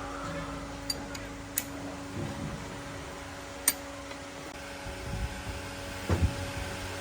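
Steady mechanical hum with a few sharp metallic clicks, and some duller knocks near the end.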